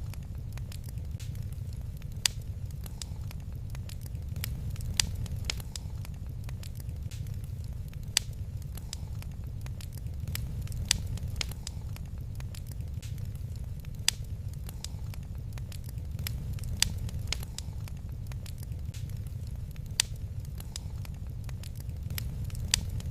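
Wood fire crackling in a fireplace: scattered sharp snaps with a louder pop about every three seconds, over a steady low rumble.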